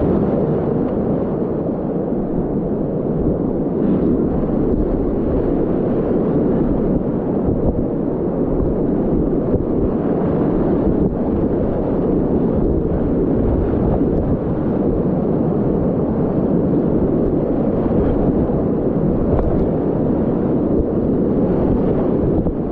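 Loud, steady rush of whitewater rapids on a continuous Class 4 river.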